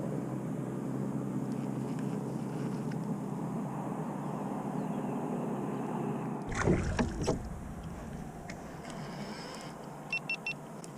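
Steady noise of a canoe on the water with a faint hum, then a few sharp knocks and splashes about six and a half seconds in, and a quick run of four clicks near the end.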